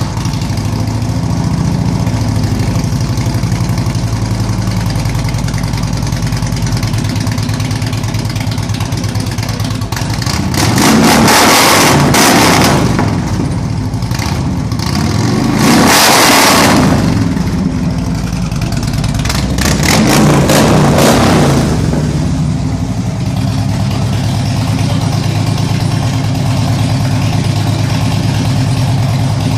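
2008 Harley-Davidson Ultra Classic's Twin Cam 96 V-twin, breathing through Vance & Hines slash-cut slip-on mufflers with a Screaming Eagle Stage 1 kit, idling just after starting. It is revved three times, each rev rising and falling over a couple of seconds, then settles back to idle.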